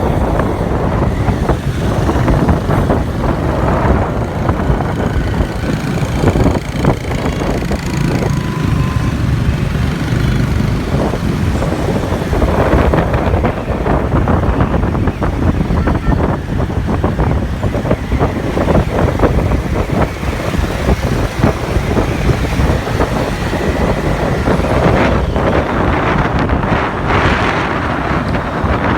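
Wind buffeting the microphone over the engine and road noise of a moving motorbike in street traffic, heard from a passenger's seat on a motorcycle taxi.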